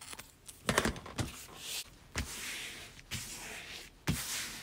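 Paper scissors cutting off double-sided tape: several sharp snips, each with a dry rasping slide of the blades.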